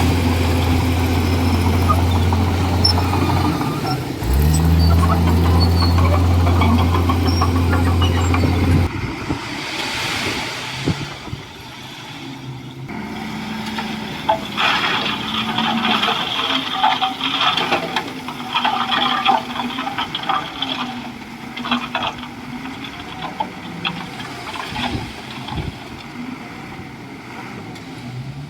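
Komatsu D41E bulldozer's diesel engine running hard, dipping briefly about four seconds in and then picking up again. About nine seconds in the loud engine drops away abruptly, leaving a quieter engine sound with repeated metallic squeaks and clanks.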